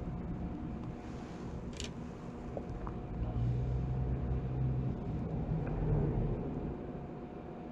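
Honda Lead 100 scooter's two-stroke engine running, rising in revs and loudness for a few seconds in the middle and then dropping back. It is being checked for an abnormal noise that the owner suspects is a crankshaft bearing.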